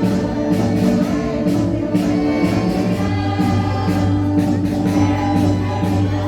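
A group of voices singing a Portuguese marcha popular together over band accompaniment with a steady beat.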